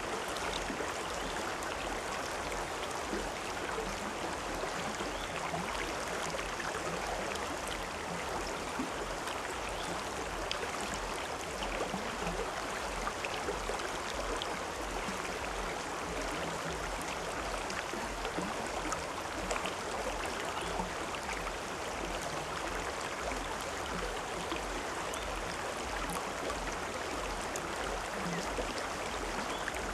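River water flowing steadily over rocks, an even rushing and splashing with small scattered trickles.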